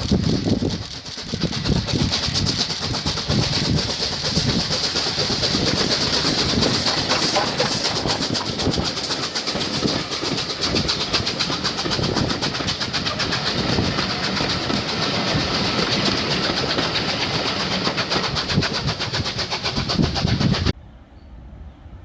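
A train running past on the railway: a steady rush of noise with fast clattering of wheels over the track and a hiss on top. It cuts off suddenly near the end.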